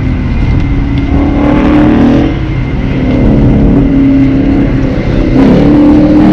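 Car engine running and revving, its pitch rising and falling several times, loudest near the end.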